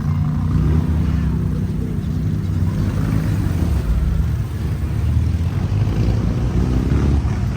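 Vehicle engine running steadily at low revs, a continuous low rumble.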